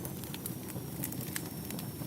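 Wood fire burning in a fireplace, with a steady low rumble and many irregular sharp crackles and pops.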